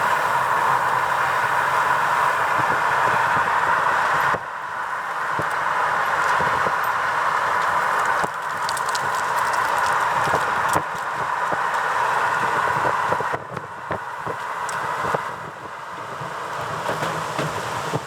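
Steady rushing road and wind noise from a moving vehicle. Its level drops abruptly several times.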